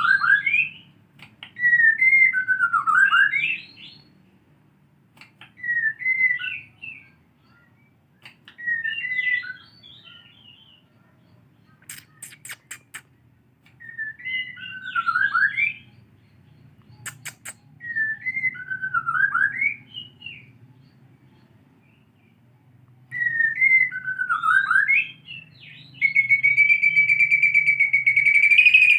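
White-rumped shama singing short whistled phrases, one about every three to four seconds, each gliding down in pitch and back up. Near the end it breaks into a sustained rapid trill. A few sharp clicks fall around the middle, over a faint low hum.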